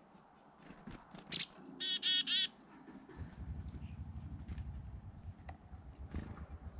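Birds calling at feeders: a short high chirp, then a loud, harsh call in three quick parts about two seconds in, followed by a few faint chirps. A low, rapidly pulsing rumble sets in about three seconds in.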